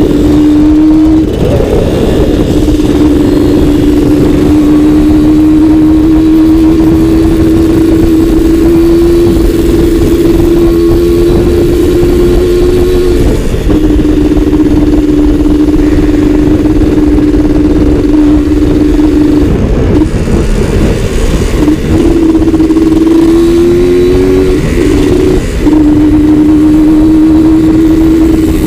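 Suzuki Satria two-stroke motorcycle engine running hard while riding, its buzzing note holding high and slowly rising in pitch. It breaks off briefly a few times.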